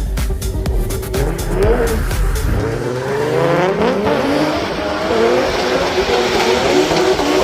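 Drift car engine revving up and down while sliding on a wet track, with tyre noise.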